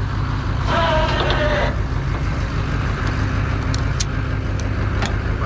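Truck engine idling steadily, with a few light metallic clicks in the second half.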